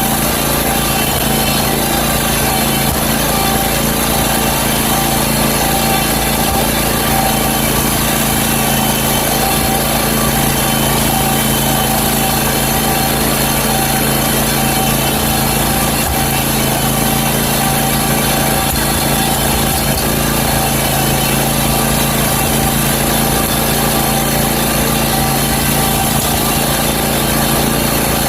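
Country Clipper zero-turn mower's engine running steadily at constant speed.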